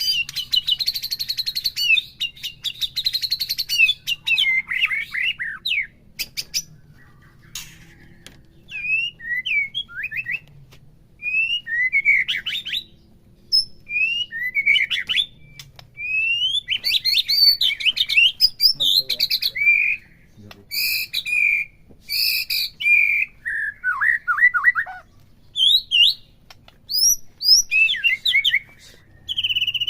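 White-rumped shama (murai batu) singing a varied song of loud whistled phrases, sliding notes and quick chattering runs, with short pauses between phrases. It opens with a dense buzzy trill.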